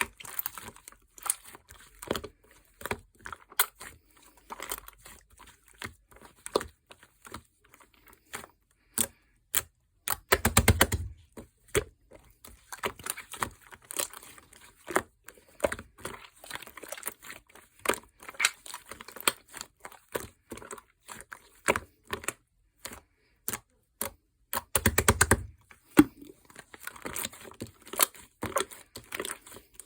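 Soft, smooth slime being squeezed, poked and folded by hand, giving irregular sticky clicks and pops, with two runs of rapid popping clicks about ten seconds in and again near twenty-five seconds.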